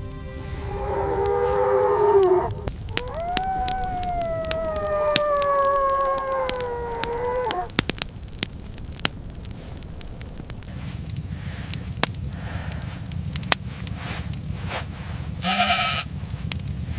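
Two long, drawn-out animal calls, the second lasting about four seconds and slowly falling in pitch, followed by scattered sharp crackling clicks over a low rumble.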